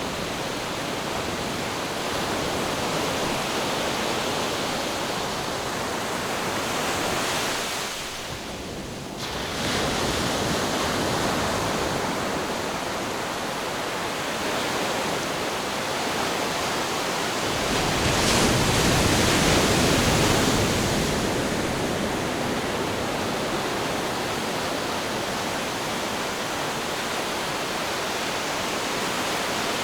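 Ocean surf: a continuous wash of waves, with a brief lull a little before 9 seconds in and a bigger wave breaking and rushing in at about 18 seconds.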